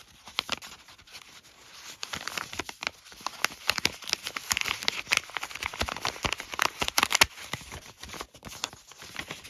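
Crinkling and rustling of paper and plastic wrapping being handled, a dense run of irregular crackles that grows louder after the first couple of seconds.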